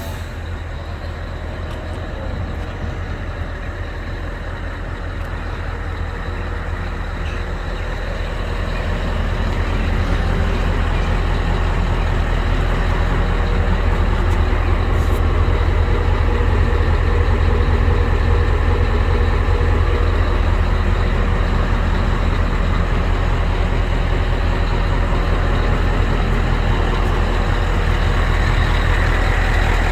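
Scania R560's V8 diesel engine running with a deep, steady drone that grows louder about eight to ten seconds in and then stays loud.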